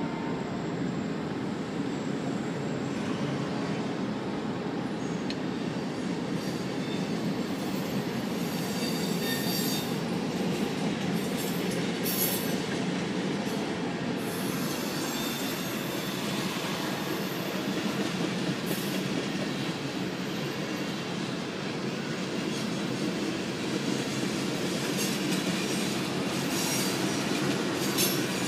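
Kanawha River Railroad freight train of tank cars rolling past a grade crossing: a steady rumble of wheels on rail. Spells of high-pitched wheel squeal come about a third of the way in and again near the end.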